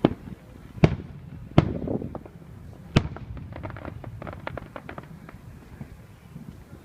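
Aerial fireworks bursting: four loud booms in the first three seconds, followed by a quick run of smaller crackling pops.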